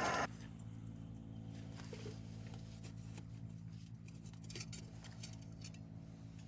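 Faint scattered clicks and light rustles of small items being handled over a steady low hum. A louder sound cuts off abruptly just after the start.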